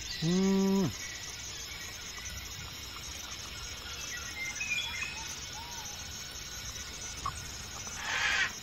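Insects buzzing steadily in high, fine-textured trills, with a few faint bird chirps. Just after the start a man's voice holds one short note, the loudest sound here. Near the end there is a brief rustle.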